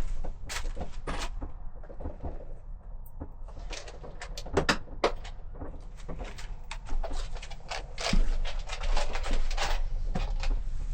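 Rummaging through hardware: a run of clicks, clinks and knocks of small metal parts and containers being handled, busiest near the middle and toward the end.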